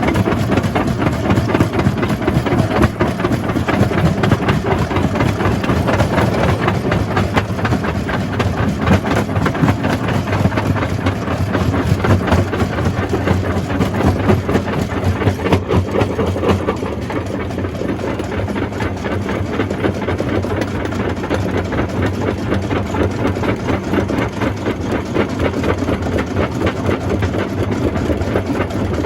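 Jaw crusher running and crushing rock: a dense, continuous crackle and clatter of breaking stone over the steady low hum of the machine.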